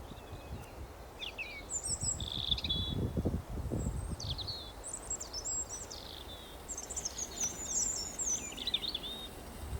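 Small songbirds chirping and trilling in quick, overlapping phrases, with gusts of wind rumbling low on the microphone, strongest about three seconds in.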